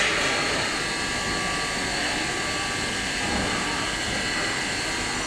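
Induction smelting furnace running, a steady, even machine noise with several high, steady tones held through it.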